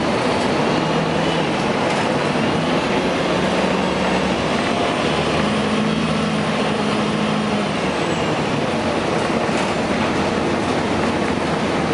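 2004 Gillig Phantom transit bus under way, its Cummins ISM inline-six diesel running with steady road noise. The engine's low hum climbs in pitch about midway and drops away near eight seconds, and a faint high whine rises and falls through the middle.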